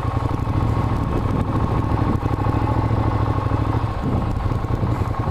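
Ducati Diavel's L-twin engine running steadily at low revs as the motorcycle is ridden slowly at walking pace.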